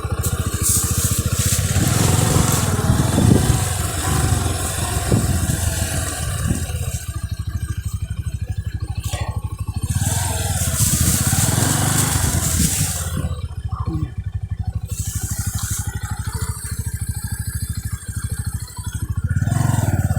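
Motorcycle engine running steadily, with rattles from the bike and patches of hiss over the top.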